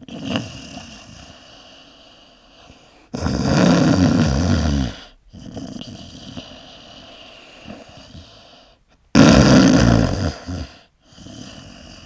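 A person snoring: two loud snores about six seconds apart, each lasting one to two seconds, with quieter breathing between them.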